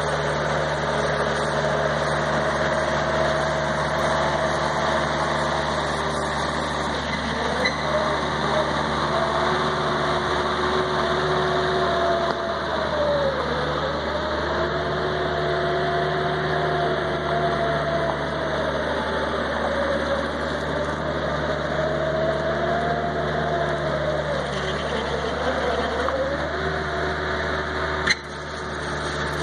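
1999 Bobcat 763 skid steer's diesel engine running, with a whining tone over it that dips and rises in pitch several times as the machine works. A sharp click comes near the end, and the level drops briefly after it.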